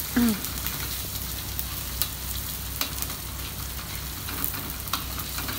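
Sliced onion, garlic and ground chillies sizzling in oil in a steel wok while a metal spatula stirs them, scraping and clicking against the pan now and then. The aromatics are being lightly fried before the spice paste and rice go in.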